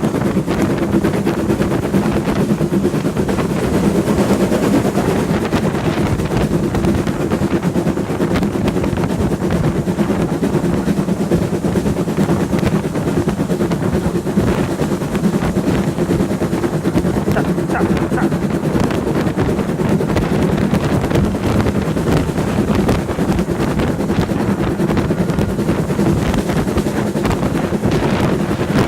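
Heritage steam-hauled passenger train running along the line: a steady rumble and fast rattle of the carriage wheels on the rails, even throughout.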